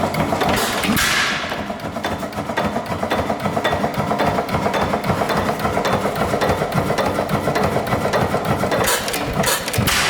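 Dempster 8 HP Grain Dealer's Special hit-and-miss engine running, a steady rapid mechanical clatter, with two louder whooshing bursts, about a second in and near the end.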